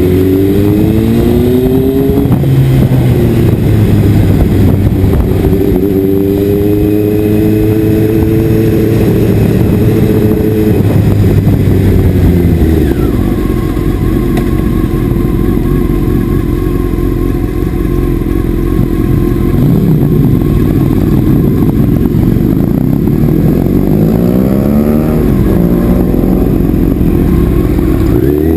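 Motorcycle engine pulling hard as the rider accelerates, its pitch rising several times, over a constant low rumble.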